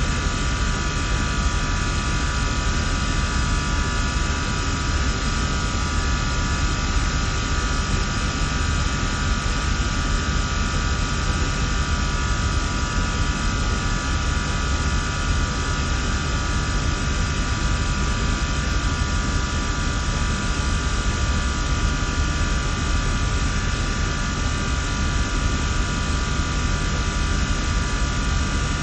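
SystemAir chiller and fan-coil HVAC equipment running steadily: a constant machine hum with a cluster of steady tones over a rushing fan noise.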